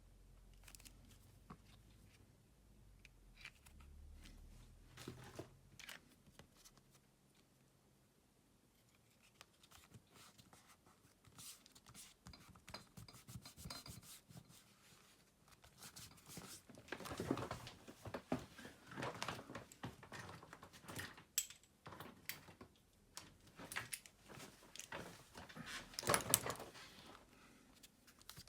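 Faint handling noise from smartphone repair work: small clicks and short bouts of rubbing and scraping as the phone and its parts are handled on a work surface. It grows busier and louder in the second half, with two stronger bouts of scraping.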